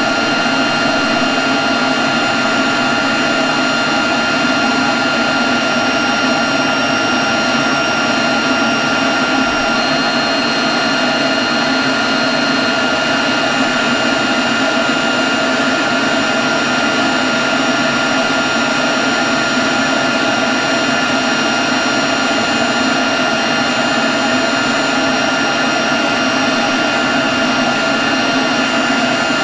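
Leaf blower running steadily at a constant speed: a loud, even rush of air with a steady high whine over it.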